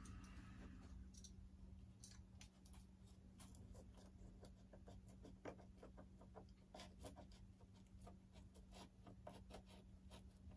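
Faint, irregular clicks and scratches of hands handling and pressing parts into a foam RC model airplane, over a steady low hum.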